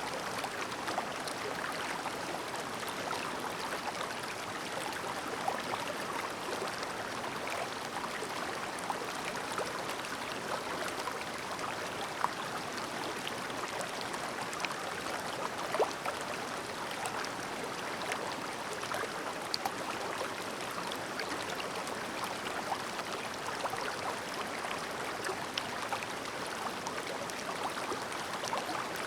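Clear, shallow river babbling steadily, with small gurgles and splashes scattered through.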